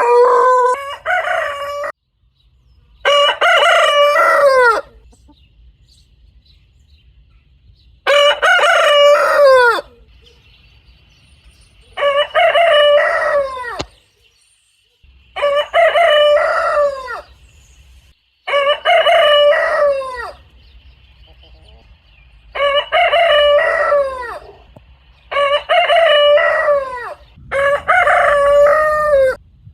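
Rooster crowing over and over: about nine separate cock-a-doodle-doos of roughly two seconds each, every crow falling in pitch at its end, with short silent gaps between them.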